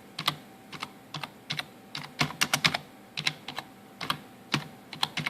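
Typing on a computer keyboard: irregular keystrokes, with a quick run of keys about two seconds in.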